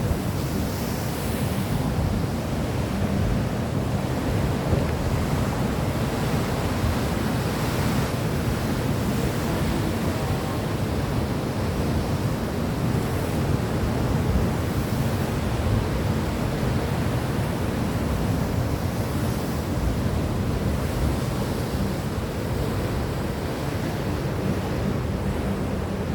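Steady low rumbling noise at an even level, with no distinct events or pitched sounds.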